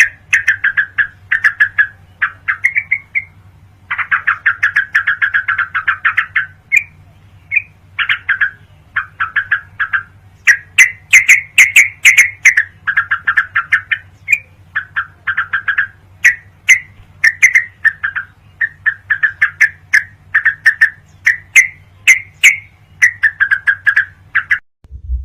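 Yellow-vented bulbul (trucukan) song recording: repeated chattering phrases of rapid notes, each lasting about half a second to two seconds, with short gaps between them. A steady low hum runs underneath.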